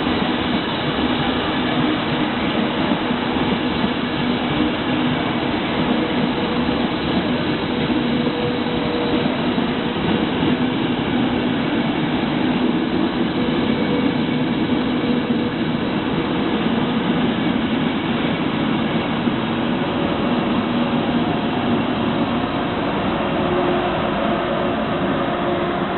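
Trenitalia Frecciabianca passenger train rolling past on the adjacent track: a steady rumble of wheels on rails with a faint hum, the coaches and then the electric locomotive going by.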